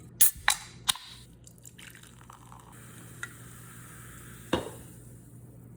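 A sparkling water container opened with a few sharp clicks, then the carbonated water fizzing and being poured, with a steady high hiss; a knock about four and a half seconds in as something is set down.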